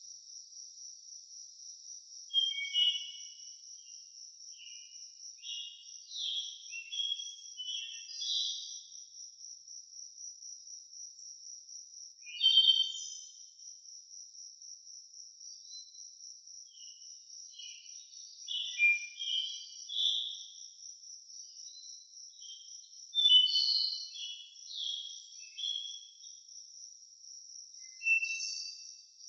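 A steady, high, rapidly pulsing insect trill runs throughout. Over it a songbird sings short phrases of quick chirps and warbles every few seconds.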